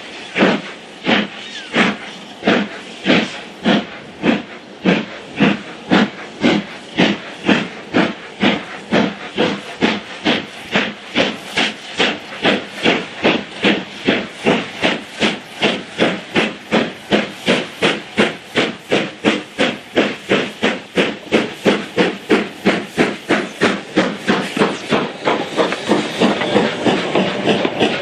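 LMS Black Five 4-6-0 steam locomotive 45212 pulling away, its exhaust beats quickening from about two to nearly four a second as it gathers speed.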